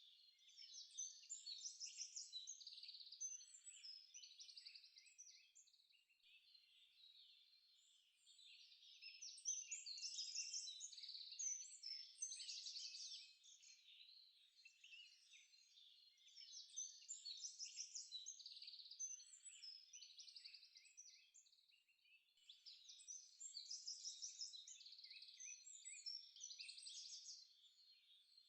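Faint birds chirping in four short bouts of quick repeated high notes, with near silence between the bouts.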